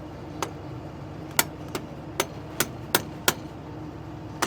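Hammer blows, about eight sharp strikes at uneven intervals over a steady background hum.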